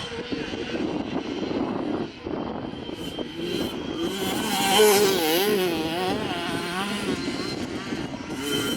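Dirt bike engines revving on a motocross track, their pitch rising and falling as the throttle opens and closes, loudest about five seconds in.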